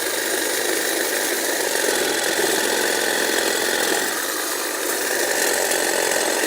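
Power saw running steadily as it cuts through a tree trunk.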